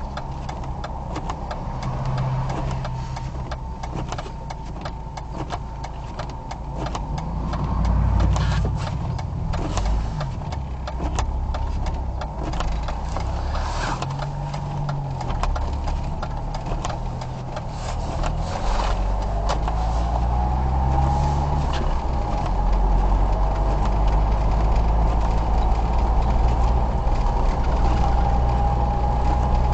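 Car engine and road noise inside a moving car's cabin, a low steady hum with scattered clicks and knocks. About two-thirds of the way through, a whine rises in pitch and the sound grows a little louder.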